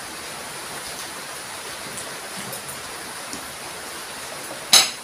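Steady hiss of rain falling, with one sharp clink of tableware near the end.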